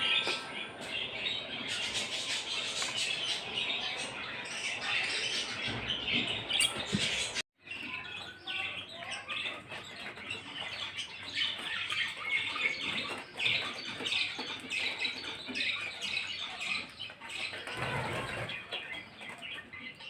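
Flock of caged pet birds chirping and chattering continuously, with a brief dead silence about seven seconds in where the sound cuts out.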